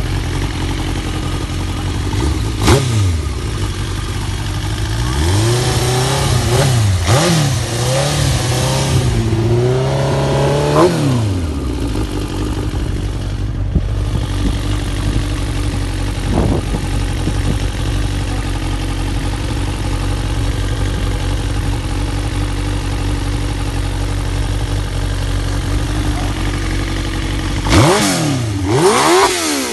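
Suzuki GSX-R1000 K8 inline-four engine running at a steady idle, revved up and down in a series of throttle blips from about five to eleven seconds in, and blipped again near the end.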